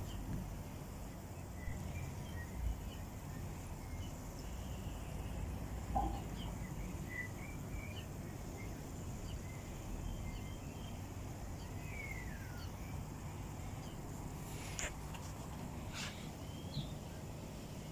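Faint garden ambience: small birds chirping now and then, with one falling whistled note about two-thirds of the way through, over a steady low rumble.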